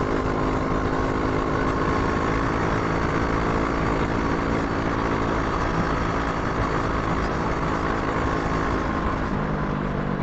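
Brixton Crossfire 500's parallel-twin engine running at a steady pace while the motorcycle is ridden, under heavy wind and road noise. The engine note changes about nine seconds in.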